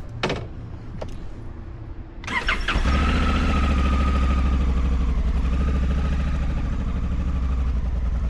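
A click, then about two seconds in a vehicle's drive starts up with a jolt and settles into a steady, loud low rumble with a faint whine above it.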